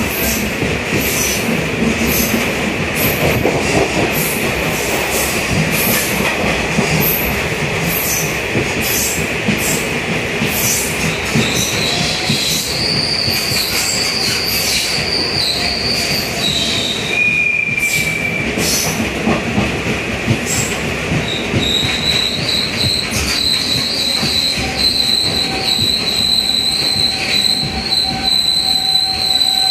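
Diesel electric multiple unit train heard from inside a coach: wheels clacking over rail joints over a steady running rumble. About midway a high-pitched wheel and brake squeal sets in, breaks off briefly, then returns and holds as the train slows to a stop at a station platform.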